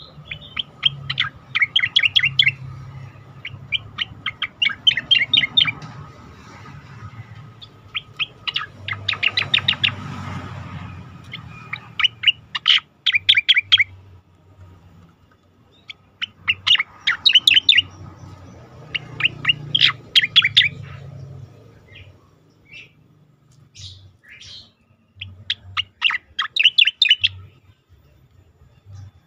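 Cica koreng (striated grassbird) singing: repeated phrases of quick, sharp notes, each phrase lasting a second or two with short pauses between.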